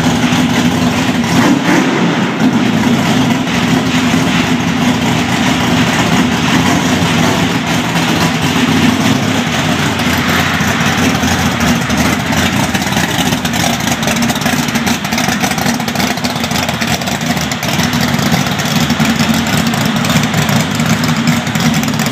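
Nostalgia Dodge Challenger drag car's V8 idling through its dual exhaust, a steady low rumble.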